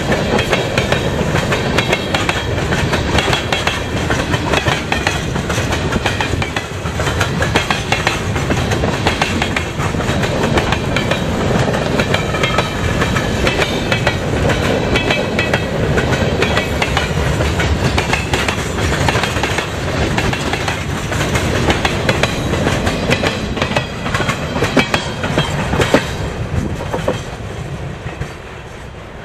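Freight train of boxcars rolling past, its steel wheels clattering over the rail joints in a dense, steady clickety-clack. The clatter falls away near the end as the last cars go by.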